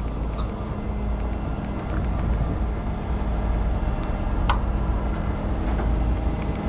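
Tow truck's engine running steadily with a low rumble during the lift, with one sharp metallic click about four and a half seconds in.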